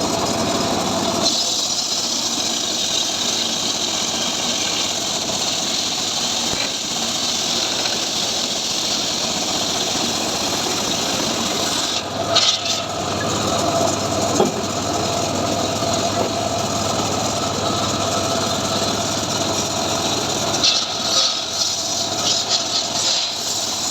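Homemade engine-driven sawmill running steadily, with short louder bursts of noise about halfway through and again near the end.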